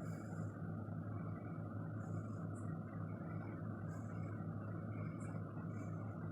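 A steady low electrical hum with an even, noisy whir over it, unchanging throughout.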